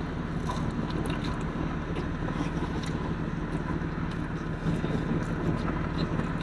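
A car engine idling: a steady low hum with faint small clicks over it.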